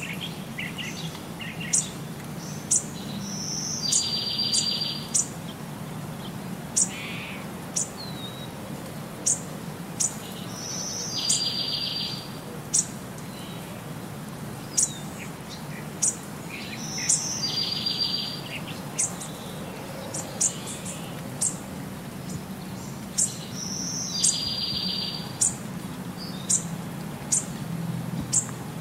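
Birdsong: sharp high chirps about once a second, with a buzzy trill about every seven seconds, repeating the same pattern like a loop, over a steady low hum.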